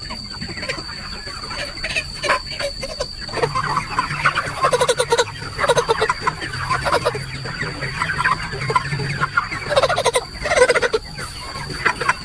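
A flock of chickens clucking and calling over one another, with a steady high-pitched whine underneath.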